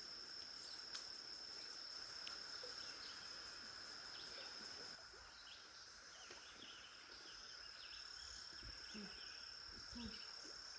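Cicadas droning in a faint, steady chorus, a continuous high-pitched whine.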